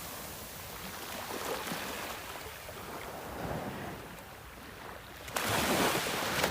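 Sea surf washing in with wind on the microphone, a steady rushing noise; about five and a half seconds in a louder rush sets in and lasts about a second.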